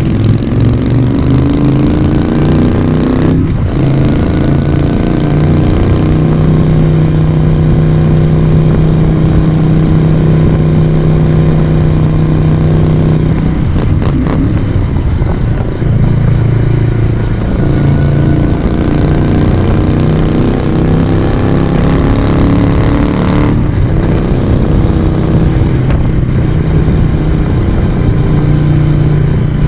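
The exhaust of a 1982 Moto Guzzi V35, an air-cooled transverse V-twin, heard while riding. The engine note climbs under throttle, breaks for a gear change about three and a half seconds in, then holds steady for a while. It drops around the middle, climbs again, and shifts once more near the end.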